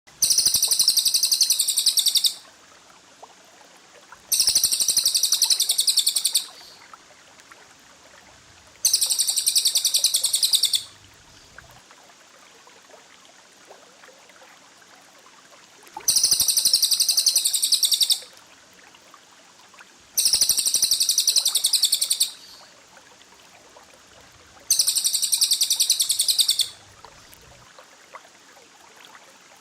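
A small bird's rapid, high-pitched chattering trill in six bursts of about two seconds each, with gaps of faint hiss between them. This is a masteran recording for training songbirds.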